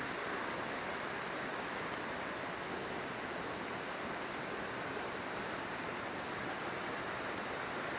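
A river rushing steadily, with a few faint, sharp crackles from a campfire scattered through it.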